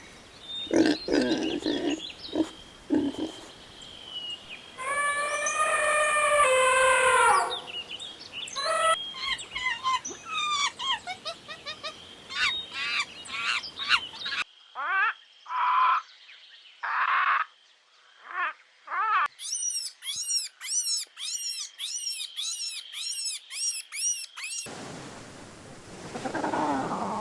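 A series of animal calls from several separate recordings cut together, mostly chirping and calling with pitched, repeated notes, including a run of quick high falling calls about two a second near the end.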